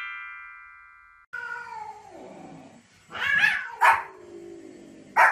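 A ringing chime fades out over the first second. Then a cat gives a long, falling meow, and a small dog barks sharply a few times, the loudest bark near the end.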